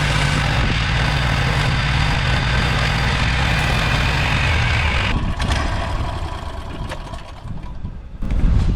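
Chainsaw mill engine running at full throttle through an oak log. About five seconds in, the cutting noise drops away and the engine runs on more quietly.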